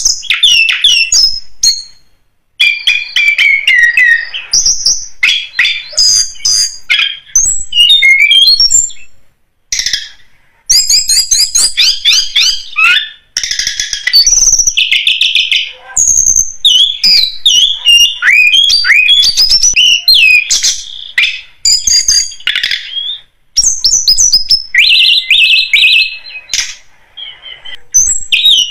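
Tledekan gunung song played as a bird-lure recording: rapid, high-pitched twittering phrases of quick chirps and downslurred notes, loud and nearly continuous, with a few brief pauses.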